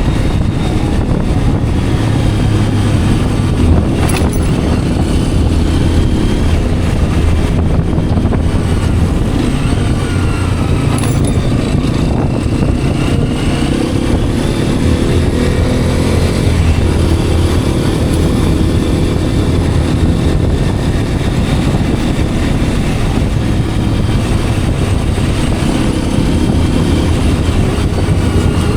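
Hero Xpulse 210's single-cylinder engine running under way, heard from the rider's position, its pitch shifting up and down with throttle and gear changes around the middle, over wind and road noise.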